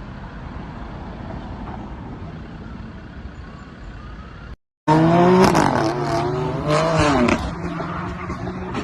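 Steady road and engine noise of a car on the move. After an abrupt cut, a much louder passage follows, with a steady held tone and pitched sounds sliding up and down over it.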